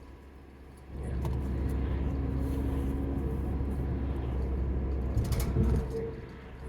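Car engine and road noise heard from inside the cabin while driving, growing louder about a second in as the car picks up, with a short rattle of clicks a little past the middle.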